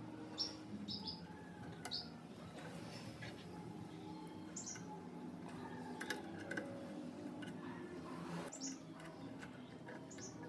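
Small birds chirping now and then in short high notes, with a few sharp clicks and a low steady hum underneath.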